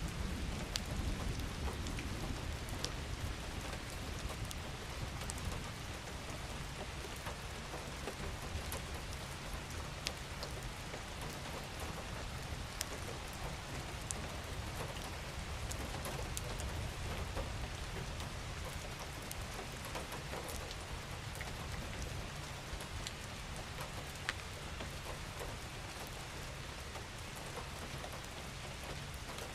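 Steady rain falling, an even hiss with scattered individual drops ticking sharply, over a low rumble that is strongest in the first few seconds.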